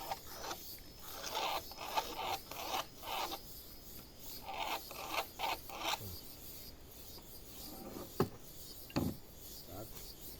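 Rhythmic rasping strokes on wood, about two a second, for the first six seconds. Then they fade to a quieter stretch broken by two short knocks near the end.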